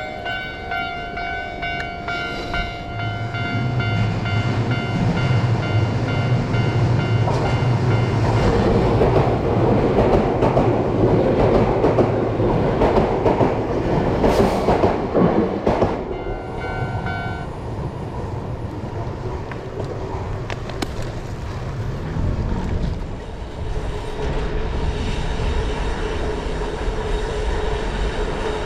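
A train passing with its horn sounding: the horn chord stops about three seconds in and comes back as a short blast about two-thirds through. Between them a low hum and the running noise of the train build to their loudest in the middle, then ease off.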